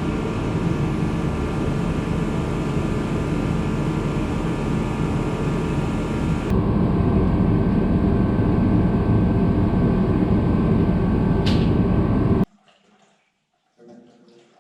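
Steady mechanical whooshing hum, like a fan or blower running. It steps up louder about halfway through, has a brief sharp chirp near the end, and then cuts off suddenly.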